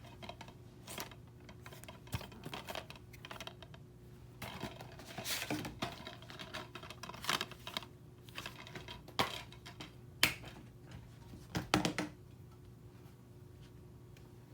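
Irregular sharp clicks and light knocks, like small hard objects being handled, over a steady low hum.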